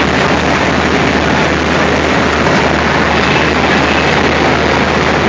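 ALCO diesel locomotive engine running steadily, a loud constant low hum under a dense rumble.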